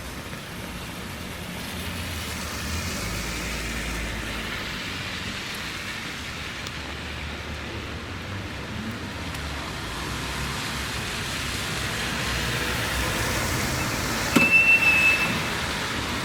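Traffic on a wet city street in the rain: a steady hiss of tyres and rain that slowly swells as vehicles pass. About 14 seconds in, a click and a short high-pitched beep stand out above it.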